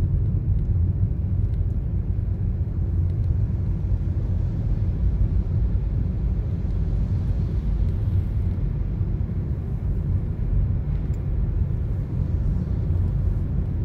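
Steady low rumble of a Toyota Corolla driving, its road and engine noise heard from inside the cabin.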